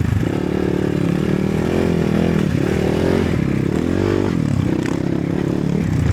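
Enduro motorcycle engine revving, its pitch rising and falling several times as the throttle is worked.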